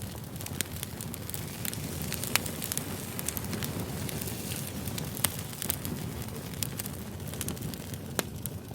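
Campfire burning: a steady low rush with sharp crackles and pops scattered irregularly throughout, the loudest pops about two and a half and five seconds in.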